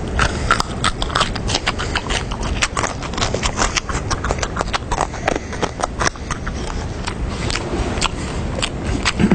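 Loud, close-up chewing and crunching of food: a rapid, irregular run of sharp crackly clicks.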